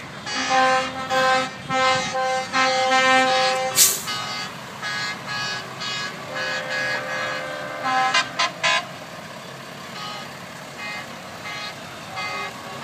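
Truck horns sounding over and over in short blasts, several horns of different pitches overlapping as the trucks pass, loudest in the first few seconds and fainter toward the end. A sharp crack about four seconds in.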